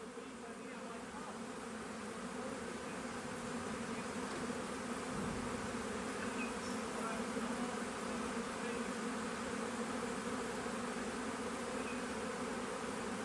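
Dense, steady buzzing drone of a large honeybee swarm in flight, thousands of bees moving toward an empty bee box. It grows a little louder over the first few seconds, then holds steady.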